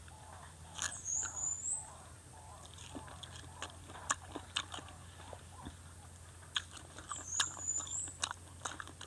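Close-up crisp crunching and chewing of a bitten macopa (wax apple), picked up by a lapel microphone, with scattered wet clicks. Twice a brief high chirp sounds.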